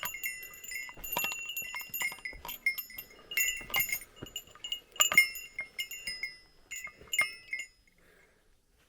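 Small metal bell jingling in irregular shakes, each strike ringing on briefly, until it stops near the end.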